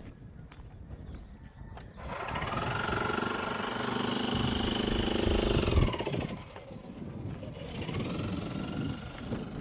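A small engine revving. It comes up sharply about two seconds in, holds at high revs and stops abruptly about six seconds in, then revs up again more weakly near the end.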